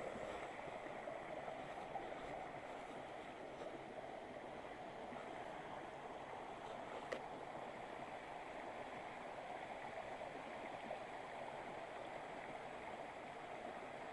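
Mountain river water rushing steadily, with one brief click about seven seconds in.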